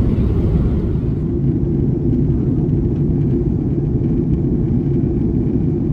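A loud, steady low rumble with no clear events in it.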